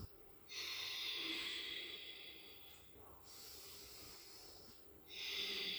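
Ujjayi (throat) breathing through the nose with the mouth closed: slow, hissing breaths through a narrowed throat. One long breath of about two and a half seconds, a softer one, then another loud one begins near the end.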